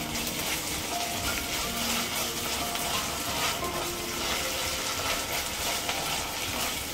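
Chopped onions sizzling and crackling in hot oil in an enamel pot, stirred with a spatula.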